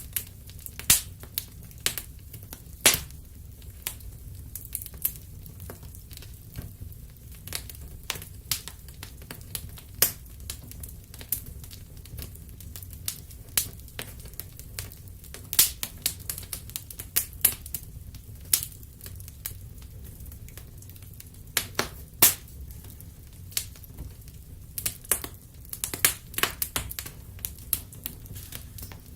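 Wood fire crackling: irregular sharp pops and snaps, some much louder than others, over a steady low rumble.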